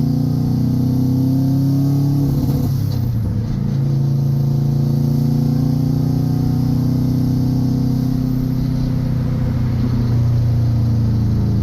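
Subaru 2-litre WRX flat-four engine pulling under load, its pitch climbing steadily. About three seconds in the note drops and breaks briefly, like a gear change, then climbs again.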